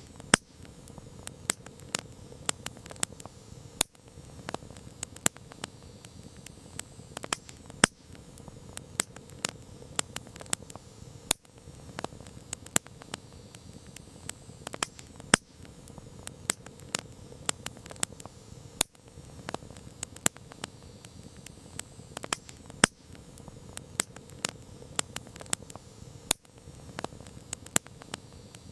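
Wood campfire crackling: irregular sharp pops and snaps, some loud, over a steady low hiss of burning.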